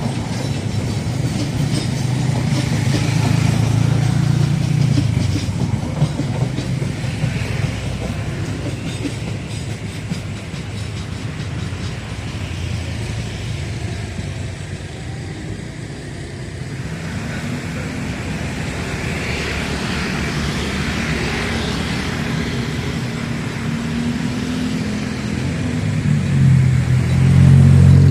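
A train runs past on the track with wheels clacking over the rail joints, then dies away. Toward the end a road vehicle's engine rises and gets louder.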